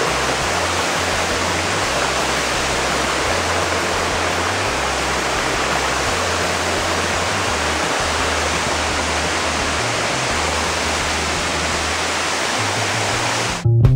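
Waterfall rushing steadily, an even, dense noise of falling water. It cuts off abruptly near the end as guitar music comes in.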